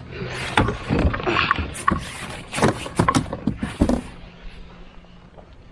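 Sharp knocks, clicks and clatter of handling on a plastic fishing kayak as a just-landed bream and lure are dealt with, busy for about four seconds and then quieter.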